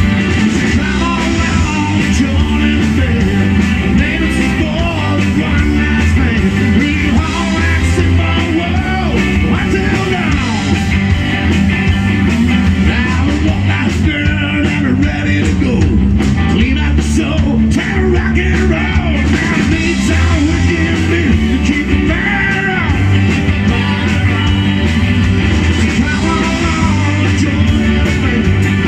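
Live rock band playing: electric guitar over a heavy bass line and drums, with singing.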